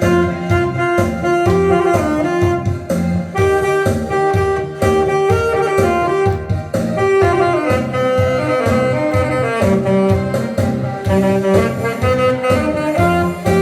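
Alto saxophone playing a trot melody in held, changing notes over a backing track with a steady beat.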